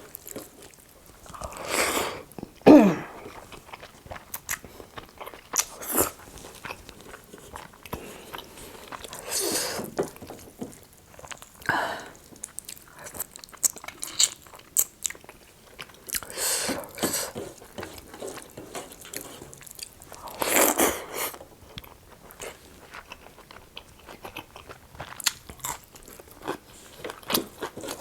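Close-miked mukbang eating sounds: chewing and biting with many small wet mouth clicks, and a few louder bursts about a second long, the loudest about three seconds in.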